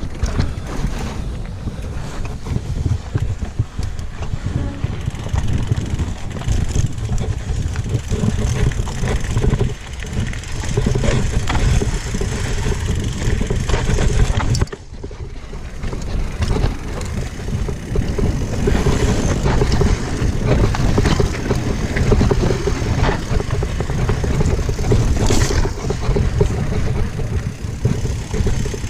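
Mountain bike clattering and rumbling down a rough trail, with wind rumbling on the microphone; the noise drops briefly about halfway through.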